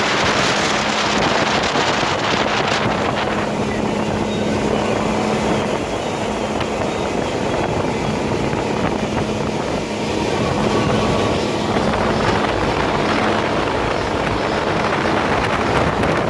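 Motorboat engine running steadily with a constant low hum, under heavy wind noise on the microphone.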